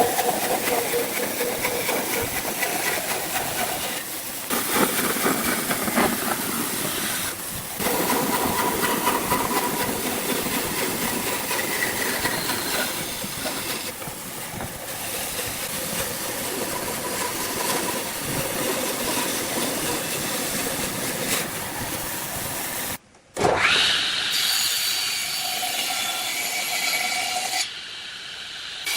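Woodworking power tools working wood, a loud, dense rasping noise in several edited stretches. About three-quarters through, after a brief break, a tool spins up with a quick rising whine.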